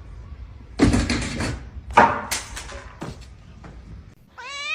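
Two short, rough knocks or scuffles about a second apart, then a cat begins a meow near the end.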